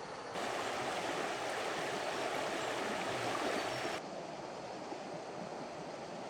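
Rushing water, a steady rush that jumps louder about half a second in and drops back abruptly at about four seconds.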